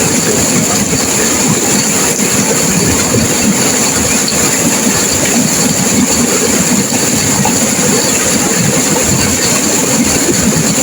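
Turbulent river water rushing and crashing, a loud, steady roar with no let-up.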